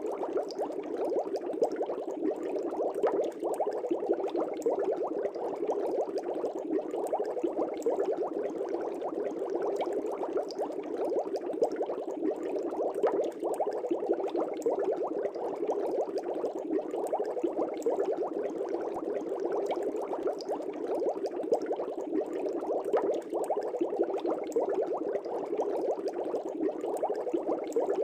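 Fish tank water bubbling steadily: a dense, continuous stream of air bubbles with many small pops.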